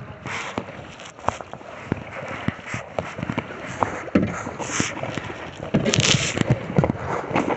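Kayak paddling: paddle blades splashing in the water, with scattered sharp knocks of the paddle and gear against the kayak hull, and a louder splash about six seconds in.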